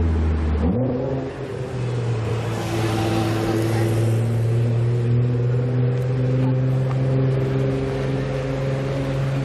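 Supercar engine running at a steady held speed. Its pitch steps up a little under a second in, then holds almost level.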